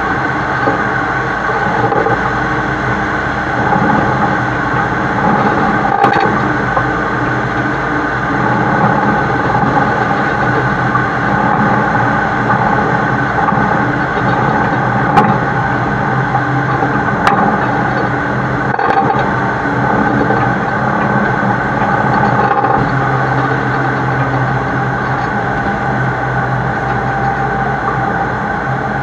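Heavy-haul tractor-trailer carrying a super load, heard from the side of the truck: the engine runs steadily under a constant rumble of road and wind noise. A few sharp clicks come through it.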